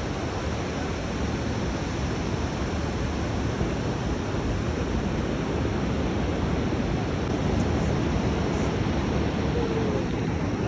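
Steady rushing noise of rough surf breaking, mixed with wind on the microphone.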